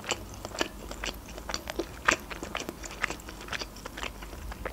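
A person chewing a mouthful of pan-fried blin (Russian crepe): irregular soft clicks and smacks of the mouth, several a second.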